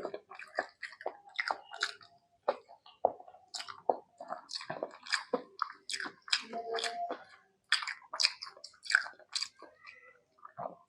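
Close-miked chewing and wet mouth smacking of someone eating rice with mutton and egg curry, a quick, irregular run of smacks and small crunches.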